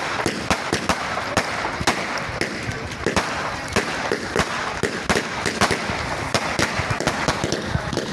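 Fireworks display: a dense barrage of bangs and crackles, several a second, over a continuous hiss.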